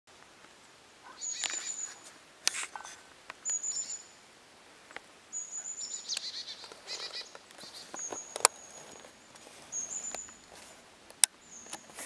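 Wild birds calling in woodland: short, high, thin calls repeated every second or two, with a few sharp clicks among them.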